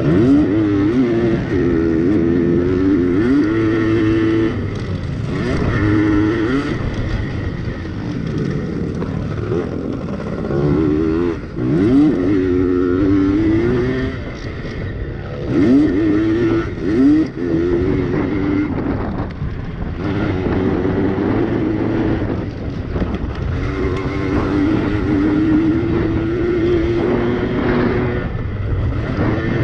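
Yamaha PW80 two-stroke pit bike engines racing, revving up repeatedly and falling back as the riders work the throttle around the track.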